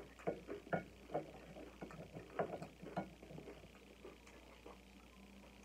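Close-up chewing of nachos: a quick, irregular run of crunches from the tortilla chips that thins out after about three seconds.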